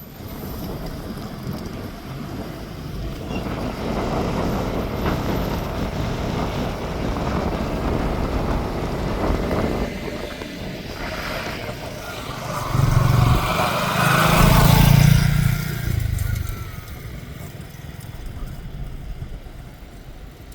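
Road traffic: motor vehicles going by, the loudest passing about two-thirds of the way in with a low rumble that swells and fades.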